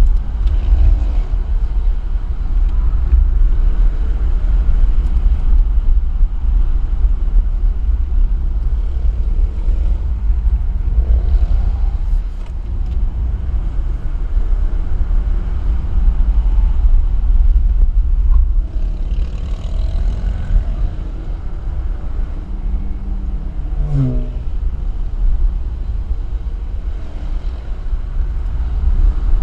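A vehicle on the move at road speed: a heavy, steady low rumble of road and wind noise with the engine underneath. A brief falling engine note comes about 24 seconds in.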